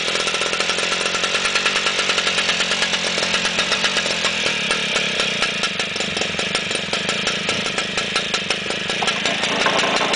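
ILO two-stroke stationary engine running with a fast, even firing beat, its first run after two years in storage. Its note changes about nine seconds in.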